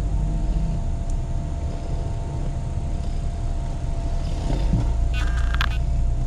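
Steady low rumble with a faint steady hum over it, and a brief rapid ticking about five seconds in.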